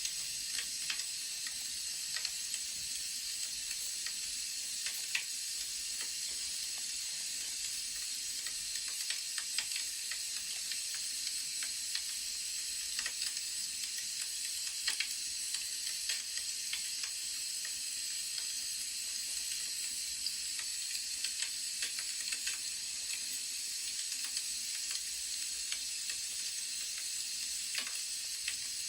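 Wood fire crackling: a steady soft hiss with irregular small pops and snaps throughout.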